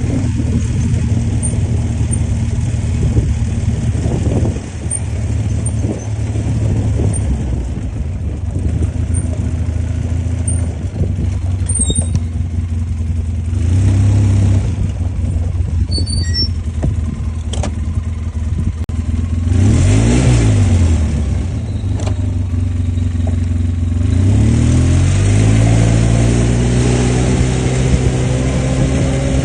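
ATV engine running under throttle, its pitch dropping and rising again about two-thirds through, then climbing steadily near the end as it revs up.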